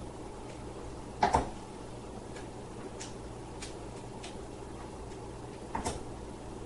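Two short double knocks, one about a second in and one near the end, over a steady low hum with faint scattered ticks.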